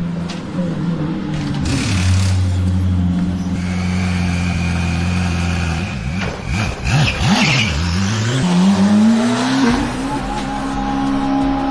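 Shelby GT500's V8 revving hard: the pitch swings down and up a few times around the middle, then climbs steadily as it accelerates near the end.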